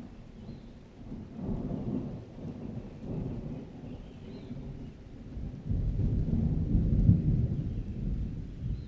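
Thunder rumbling over rain: a couple of low rolls, then a longer, louder rumble building about six seconds in.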